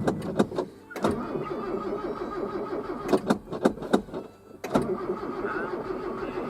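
A vehicle engine cuts off, followed by several sharp clicks and clunks of doors and controls, then the old 'green bean' vehicle's engine being cranked over to start after sitting unused for a while.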